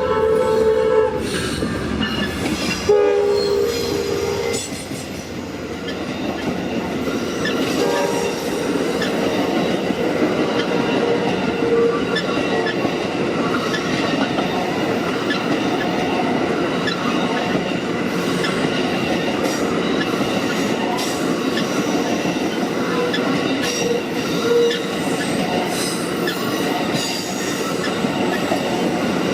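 Diesel locomotive horn sounding a chord that ends about a second in, with a second short blast about three seconds in. A train then rolls past with steady wheel-on-rail noise and scattered clicks over the rail joints.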